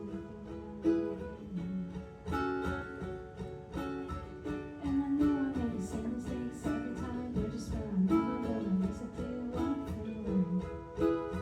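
Ukuleles strumming chords in a steady rhythm, with a melody line winding up and down beneath the chords from about five seconds in.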